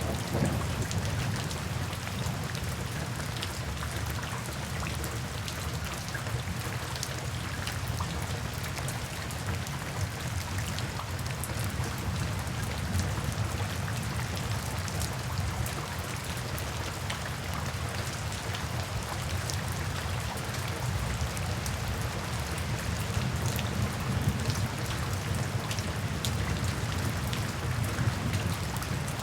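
Steady rain falling on a surface, with many individual drops ticking over a continuous low rumble.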